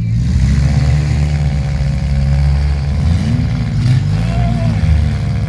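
Several demolition derby cars' engines running and revving together, a loud, continuous low drone whose pitch rises and falls as the drivers rev.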